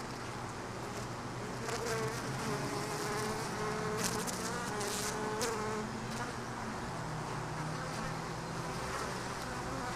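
Honey bees buzzing in flight around an open hive, several bees at once with steady, wavering tones. A few short clicks about four to five seconds in.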